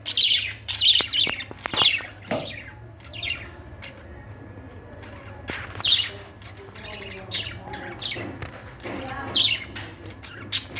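A bird chirping and squawking in irregular bursts of short, high calls, busiest in the first two seconds and again near the end.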